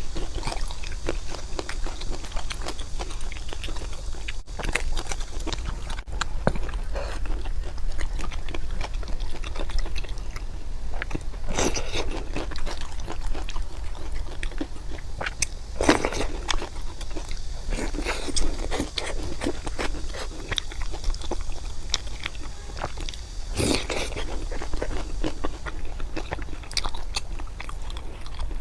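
Close-miked eating: steady chewing and crunchy bites, with a few louder crunches scattered through, over a low steady hum.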